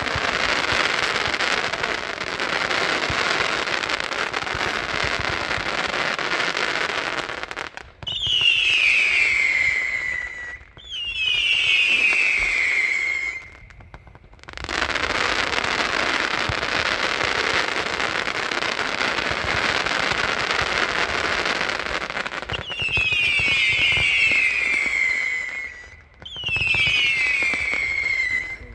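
A 154-shot consumer firework cake firing. Long stretches of dense, rapid shots alternate with pairs of falling whistles, each pair a bundle of whistles gliding down together over about two seconds, and the pattern comes round twice.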